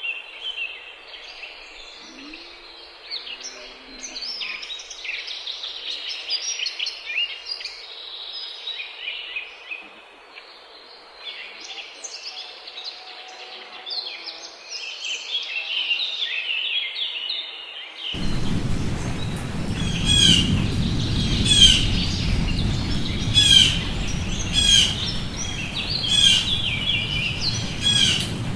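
Many birds chirping and singing at once, with short calls overlapping. About two-thirds of the way in the sound changes abruptly to a louder background with a low rumble, over which one bird gives the same short call again and again, a little more than once a second.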